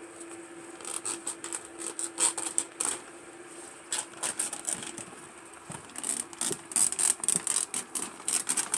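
Old plastic pond liner crinkling and crackling as it is pulled and torn out by hand, in stop-start runs of sharp crackles.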